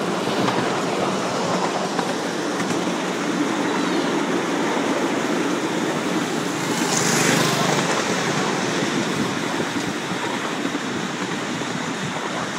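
Small park steam train running along its track: a steady rumbling run noise, with a brief hiss about seven seconds in.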